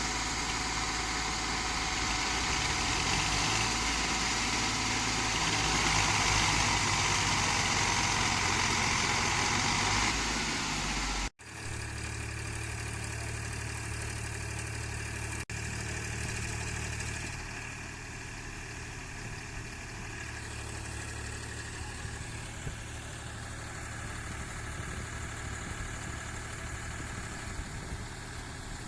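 Diesel tractor engines running, in spliced clips: loud and hissy for the first eleven seconds, then after a sudden cut a steadier, quieter low running sound, like idling.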